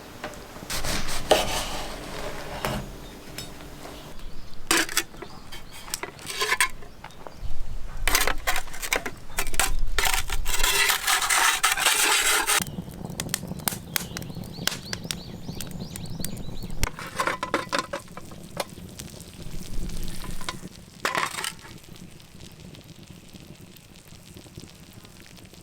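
Cooking sounds: utensils clinking and stirring against a pan in irregular bursts, with sizzling. The longest and loudest burst comes about ten seconds in and lasts about two seconds.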